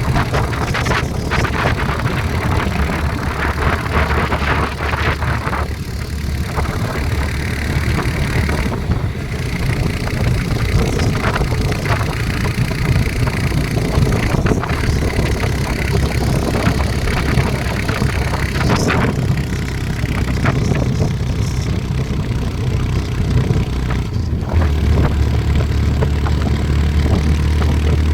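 A motor vehicle running steadily with a continuous low rumble of engine and road noise, and occasional short knocks and rattles.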